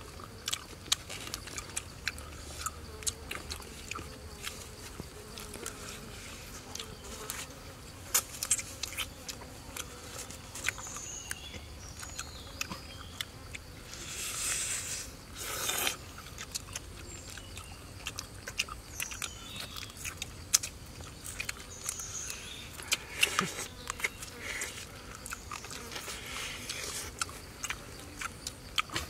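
Close-up biting and chewing of crisp fried eel, with many sharp crunching clicks, over a steady buzz of insects.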